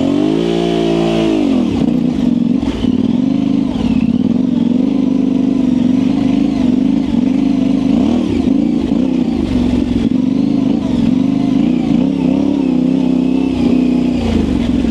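Yamaha Ténéré 700's parallel-twin engine, fitted with an aftermarket high-mount exhaust, revving up and back down in the first couple of seconds, then running steadily under throttle with small rises and falls as the bike is ridden.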